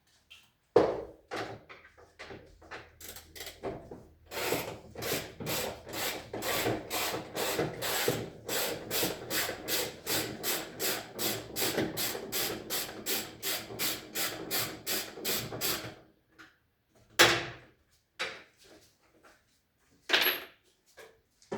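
A hand tool working in even, rapid back-and-forth strokes, about two and a half a second, for some twelve seconds. It stops, and two single louder knocks follow near the end.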